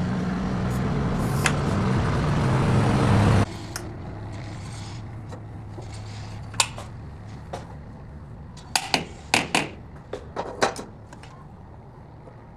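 A motor runs with a steady low hum and noise, then cuts off abruptly about three and a half seconds in. After that, a faint hum remains, with a series of sharp metallic clicks and knocks, several in quick succession near the end.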